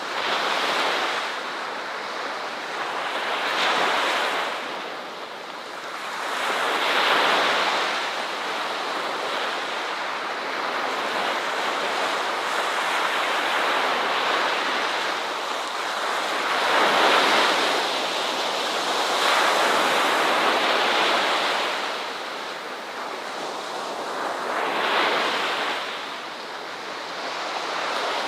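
Ocean waves breaking and washing up a shore, surging louder every few seconds and then falling back.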